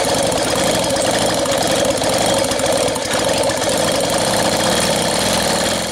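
Motobecane moped's two-stroke engine being spun over with its spark plug out and laid against the cylinder head to check for a spark: a loud, steady mechanical whirring with rapid ticking that cuts off at the end.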